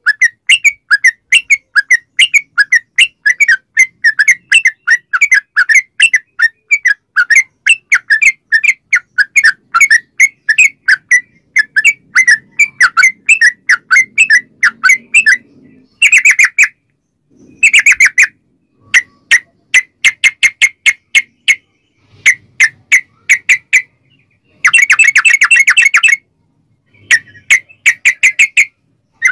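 Yellow-vented bulbul (trucukan) singing a long, fast run of repeated chattering notes. The run goes unbroken for about sixteen seconds, then breaks into short bursts separated by brief silences.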